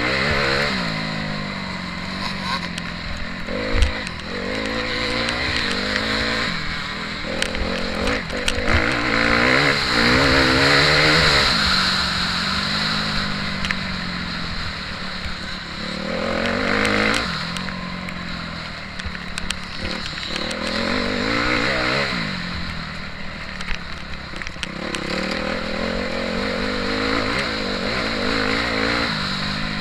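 Motocross bike engine heard from on board, revving up hard and falling away again several times as the rider accelerates along the track and backs off for turns. A sharp knock stands out about four seconds in.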